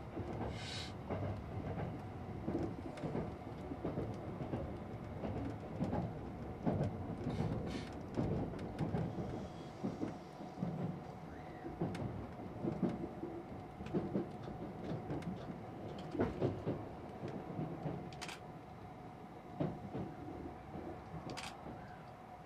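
Train running on rails, heard from inside the carriage: a steady rumble with a steady hum, broken by irregular clacks and knocks of the wheels and car body. It grows quieter over the last few seconds as the train slows on arrival.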